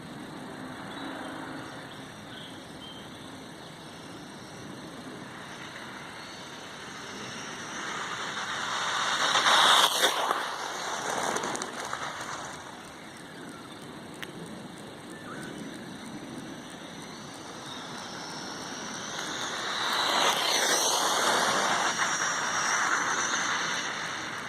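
HPI Blitz 2WD RC truck on a 3-cell (11.1 V) battery making two fast passes, its electric motor whine and tyre noise swelling as it approaches and dropping in pitch as it goes by, about ten seconds in and again about twenty seconds in. The first pass is the louder.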